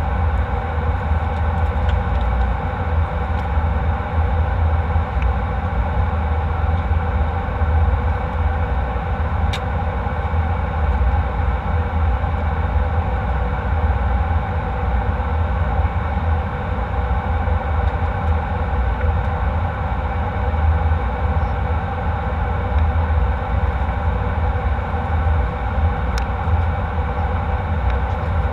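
Steady jet engine and airflow noise heard inside an airliner cabin: a constant deep rumble with several steady tones above it.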